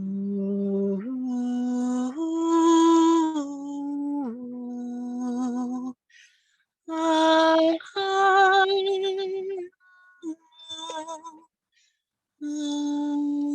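Wordless singing voice toning long held notes that step and slide between pitches, with a wavering vibrato on one note about eight seconds in, in phrases broken by short pauses: sound-healing vocal toning.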